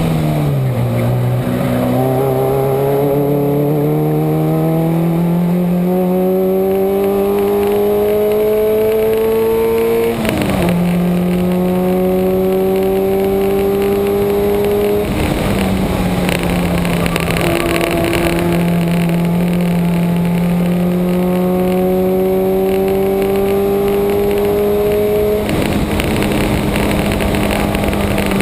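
A Subaru's engine working hard on track, heard from on board with wind and road noise: its pitch falls at the start, climbs steadily for about ten seconds, drops sharply with a gear change, then stays high with slow rises and dips and two more breaks later on as the driver shifts and lifts for corners.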